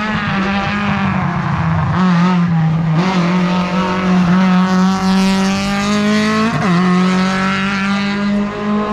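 Race car engine running hard at high revs, its pitch climbing slowly and steadily, with a brief break and jump in pitch about two thirds of the way through, like a gear shift.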